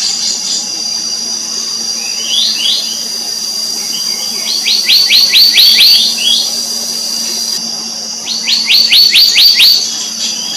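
Black-naped monarch singing: two quick runs of about eight or nine ringing notes, each note sliding down, the second run a couple of seconds after the first. A steady high insect drone runs underneath.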